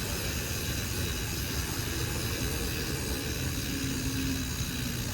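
Steady outdoor wind noise on the microphone: a low buffeting rumble under an even hiss.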